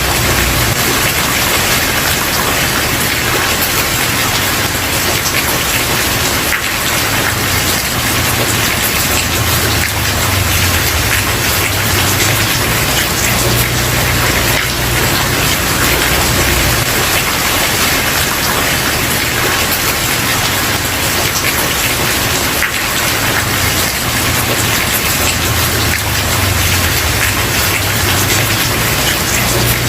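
Steady heavy rain falling, a dense even hiss with many fine drop hits, over a low rumble that swells and fades.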